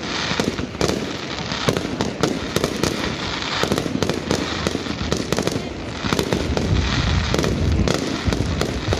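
Fireworks display going off: a dense run of bangs and crackling, with heavier deep booms from larger shells a little past the middle.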